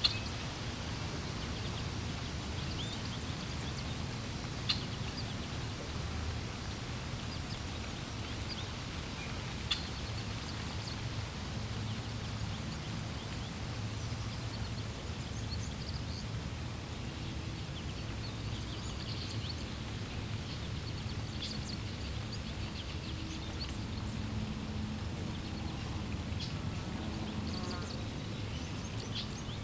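Steady low rush of flowing water with scattered short, high bird chirps throughout, and a few sharp clicks in the first ten seconds.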